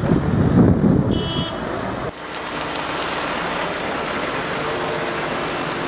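Wind rumbling on the microphone, with a brief high beep about a second in; then, after a cut, a steady even rushing noise.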